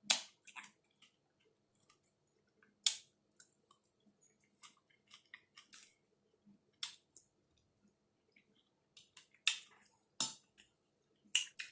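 A person chewing a mouthful of taco, with short sharp crunches every second or two.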